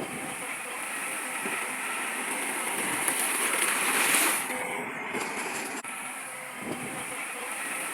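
Heavy earthmoving machinery working, a steady mechanical noise that swells louder about three to four seconds in and changes abruptly around five seconds in.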